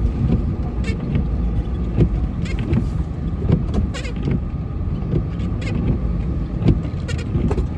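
Truck engine running steadily, with irregular knocks and rattles over it.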